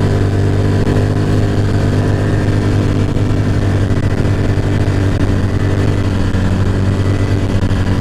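Off-road vehicle engine running at a steady cruising speed during a ride, a steady low drone that holds its pitch.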